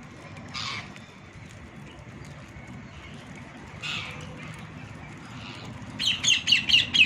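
Parrot calls: a single squawk about half a second in and another around four seconds, then a rapid run of about seven sharp, high screeches near the end, the loudest part.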